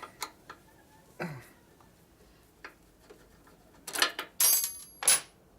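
Hand tools and small metal parts clinking against metal: a few light isolated taps, then a louder cluster of clatter about four to five seconds in, two of the strikes leaving a brief high metallic ring.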